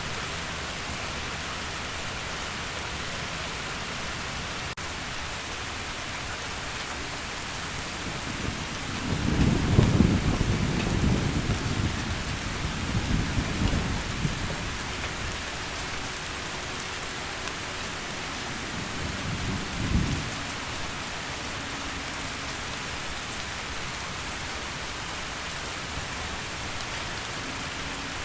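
Steady heavy rain with thunder: a long low rumble rolls in about a third of the way through and fades over some five seconds, and a second, shorter rumble follows a little later.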